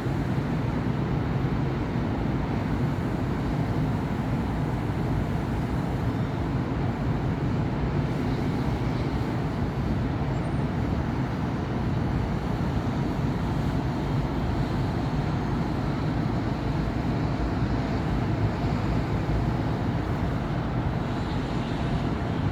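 City road traffic, a steady wash of car and bus engines and tyre noise, even throughout with no single vehicle standing out.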